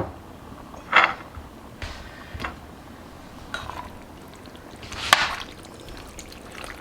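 A metal spoon knocking and clinking against a pot while thick chili is stirred. There are two sharp knocks, about a second in and about five seconds in, with a few fainter taps between.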